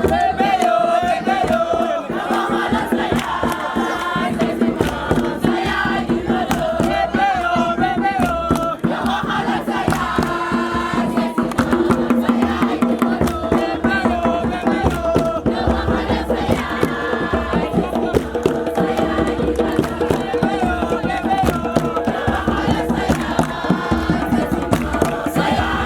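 A group singing a chant together over a steady percussion beat.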